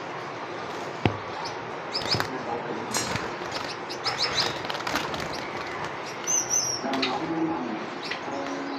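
Cage birds in an aviary chirping in short, high, scattered calls, a few in quick clusters, over a steady background hiss.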